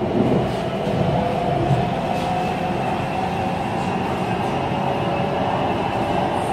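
BTS Skytrain electric train running along the elevated track, heard from inside the carriage: a steady rumble of wheels on rail with an even whine running through it.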